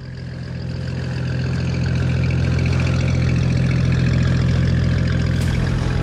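A boat's engine running steadily with a low, even hum. The sound fades in at the start.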